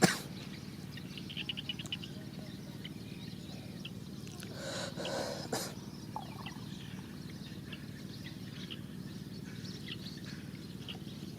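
Outdoor rural ambience: scattered bird chirps, including a quick run of ticks about a second and a half in, over a steady low hum, with a brief noisy rustle around five seconds in.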